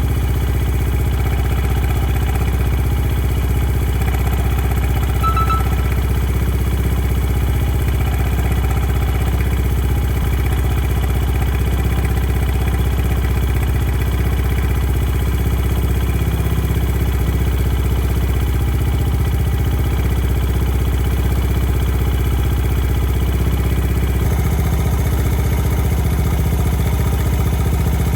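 Honda Ape 50's small single-cylinder four-stroke engine idling steadily, with a light mechanical clatter of the kind a slack cam chain makes.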